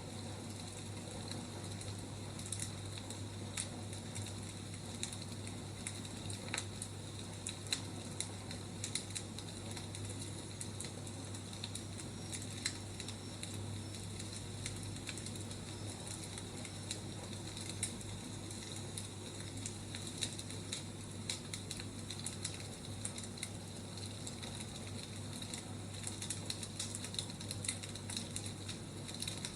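Wood fire burning, with a steady hiss and frequent irregular sharp crackles and pops, over a steady low hum.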